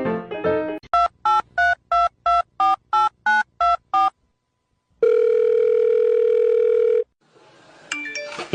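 Telephone keypad dialing: about ten short two-tone beeps, roughly three a second, after music stops just under a second in. After a short gap comes a steady tone lasting about two seconds, then a brief rising sound near the end.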